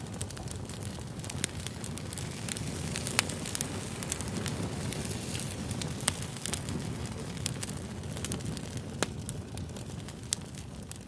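Fire crackling: a steady rushing hiss with sharp pops every second or two.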